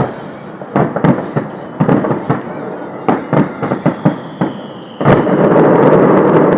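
Fireworks display: a quick series of sharp bangs from bursting shells, with a whistle falling slightly in pitch, then about five seconds in a loud, dense, continuous barrage sets in.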